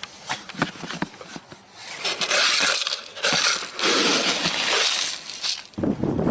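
Boots crunching through frozen snow and ice: a few sharp crackles, then a long stretch of loud crunching steps.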